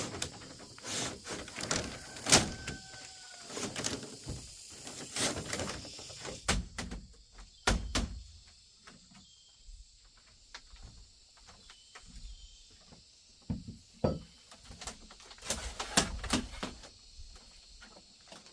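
Irregular knocks, taps and thuds of hands-on work, busy at first and sparser after about eight seconds, with a short faint squeak a little after two seconds.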